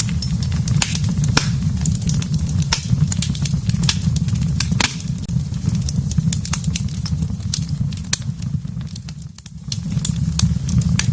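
Wood fire burning in a fireplace: frequent sharp crackles and pops over a steady low rumble. The rumble fades briefly about nine seconds in.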